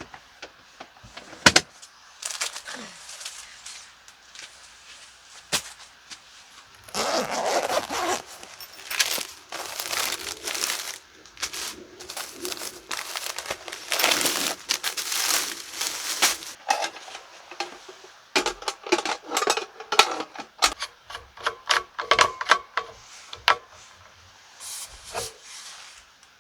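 Handling noises: rubbing and scraping with scattered knocks and clicks, densest for about ten seconds in the middle.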